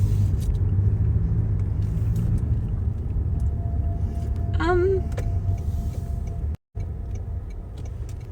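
Car cabin road noise while driving: a steady low rumble of tyres and engine heard from inside the car. A brief hummed voice comes in about five seconds in, and the sound cuts out for an instant near the end.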